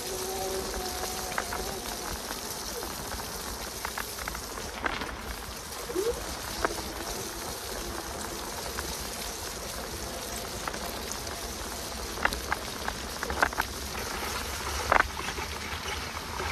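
Steady hiss of rain and wet tyres on a leaf-strewn path, with scattered sharp ticks of drops. The e-bike's hub motor whirs at a steady pitch and fades out about a second and a half in.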